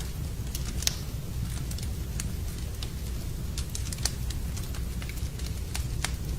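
Wood fire in a fireplace crackling, with irregular sharp pops over a steady low rumble; the loudest snaps come about a second in and about four seconds in.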